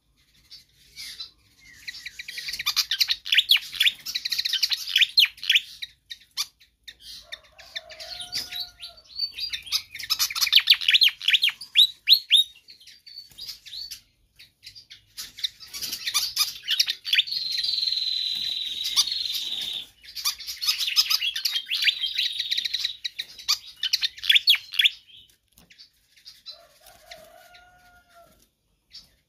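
Fantail (sikatan kipas) singing in three long bouts of rapid, high chattering notes, the last bout with a long held high note in its middle. A short, lower whistle comes twice in the gaps between bouts.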